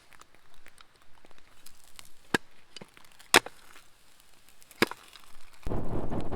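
Firewood being chopped or split: three sharp wooden knocks about a second apart, with lighter taps between them. A loud, rough, continuous noise starts suddenly near the end.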